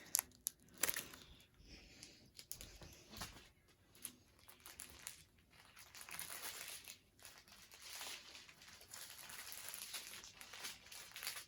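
Small plastic bags of diamond painting drills crinkling as they are handled. A few sharp crackles come in the first second, then quieter, scattered rustling.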